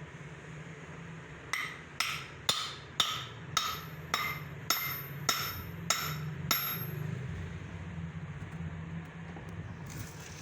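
Hammer blows on steel: about ten even, ringing strikes at roughly two a second, over a steady low machine hum.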